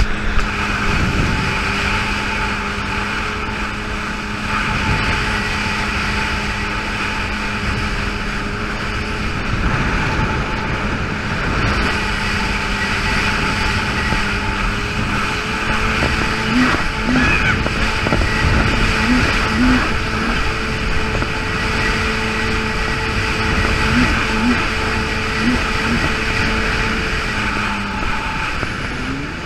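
Yamaha GP800 jet ski's two-stroke twin engine running at a steady speed under way, over a constant rush of wind and water. Near the end the engine note drops as the throttle comes off.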